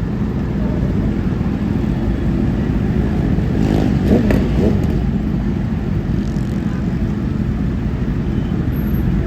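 Motorcycle running on the move, with a steady low rumble of engine and wind on the microphone. A brief pitched sound comes about four seconds in.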